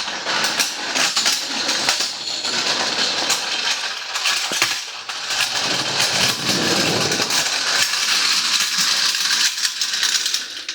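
Hydraulic scissor motorcycle lift being wheeled across the workshop floor by its handle: a continuous metallic rattling and scraping full of small clicks.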